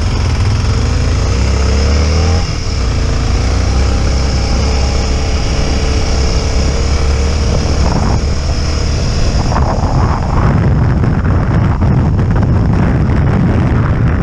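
Motorcycle engine pulling away: its pitch rises for about two seconds, drops at a gear change, then runs on steadily. From about ten seconds in, a rushing noise rises over the engine.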